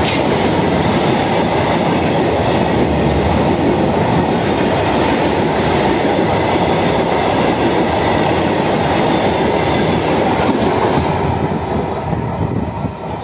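Freight train of hopper wagons rolling past close by, a continuous heavy rumble of wheels on the rails that eases off near the end as the last wagons go by.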